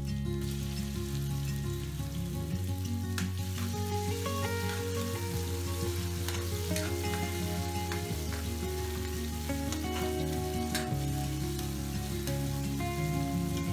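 Garlic, ginger and onion sizzling in hot oil in a metal wok, stirred with a metal spatula that scrapes and clicks against the pan. Background music with chords changing every few seconds plays throughout.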